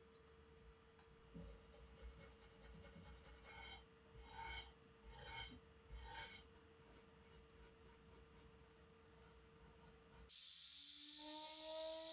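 Rasping, scraping strokes of hand abrasive work on a rifle part. First comes a quick run of short strokes, then three slower, longer strokes that ring with a squeal, then lighter short scrapes. Near the end the sound changes abruptly to a louder steady hiss with a rising whine.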